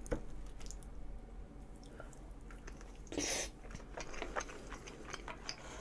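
Close-up chewing of a mouthful of food: soft, wet mouth clicks and smacks, with one short, louder noisy sound about three seconds in.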